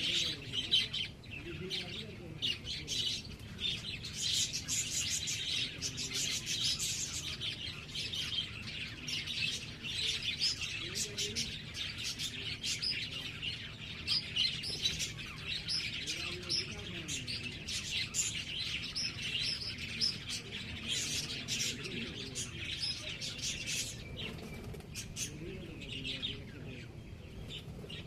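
Small birds chirping, a dense stream of quick, high, overlapping chirps that keeps going almost without a break.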